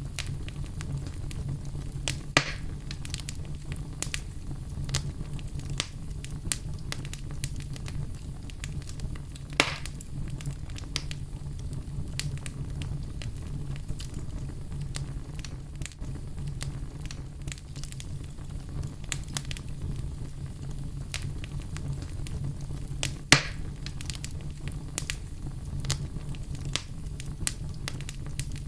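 Wood fire burning in a fireplace: a steady low rumble of the flames with irregular crackles and pops, a few sharp louder pops standing out, the loudest about 23 seconds in.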